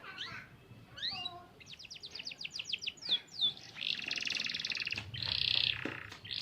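Domestic canary singing: a run of quick downward-sweeping notes, a couple of falling whistles, then fast rolling trills held for about a second each in the second half.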